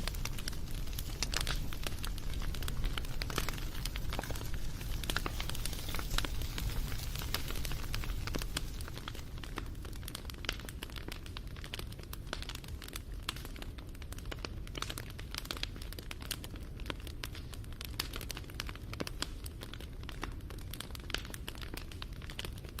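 Wood fire crackling, with a dense stream of small snaps and pops over a low rumble; it eases slightly after about eight seconds.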